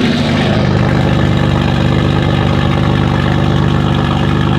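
A car engine idling steadily, with an even, unchanging tone.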